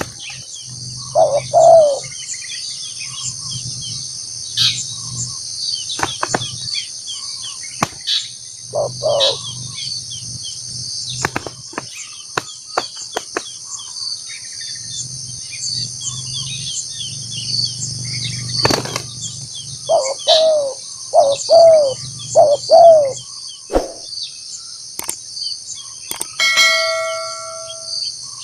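Spotted doves cooing: single coos early on, then a run of about five falling coos some twenty seconds in, over a steady drone of cicadas and crickets, with scattered sharp clicks.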